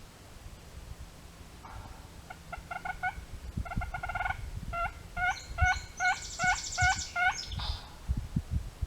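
Turkey yelping: several runs of short, evenly spaced yelps, about five or six a second, starting about two seconds in. Near the middle a faster, higher rattle sits over the yelps, and the run stops shortly before the end.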